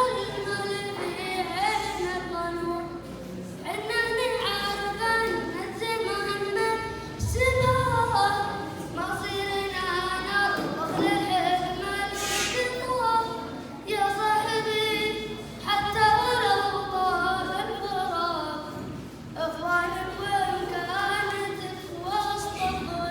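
A schoolboy singing solo without accompaniment, a high voice in long sung phrases with short breaks for breath between them.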